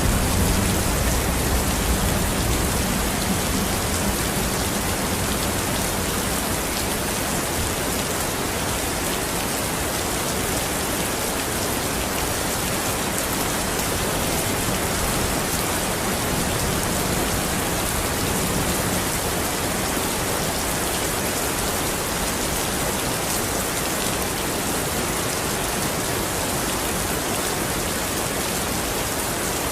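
Steady, even rain falling and pattering on a surface.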